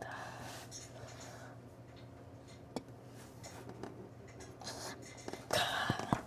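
Hand-handling noise under an engine: faint scraping and rustling with a few small sharp clicks, loudest near the end, over a steady low hum.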